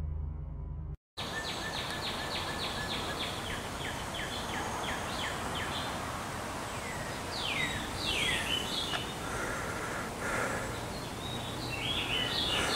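Songbirds singing outdoors over a steady background hiss, starting about a second in after the end of a short music sting. Calls include a quick run of short down-slurred notes, then longer falling whistles later on.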